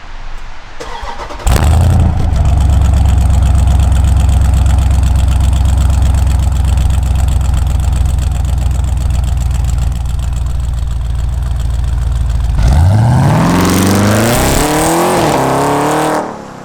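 Jeep SRT's 6.4-litre HEMI V8 with Stainless Works headers, loud and deep. It comes in suddenly about a second and a half in and runs steadily. About thirteen seconds in it revs up hard in a rising pull, with a brief dip, before cutting off just before the end.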